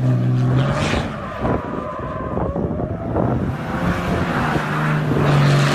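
Diesel pickup truck engine running hard under throttle: a steady engine note, a stretch of rough, choppy running with a faint rising whistle in the middle, then the steady note again near the end.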